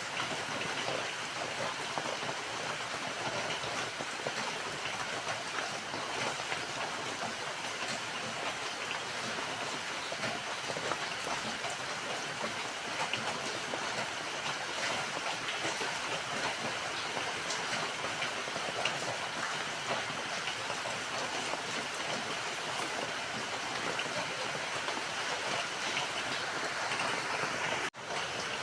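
Steady rain falling, an even dense patter of drops. The sound cuts out for a split second near the end, then resumes.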